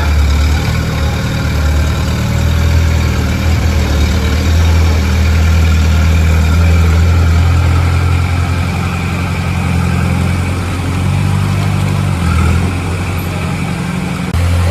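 Heavy diesel machine engine running steadily with a low hum. It eases off just before the end, then comes back abruptly at full level.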